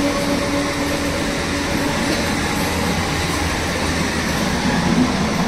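Steady rumble and rattle of trains running on the rails, heard from aboard a moving train with an electric multiple unit on the next track, with a steady hum that fades out about a second in.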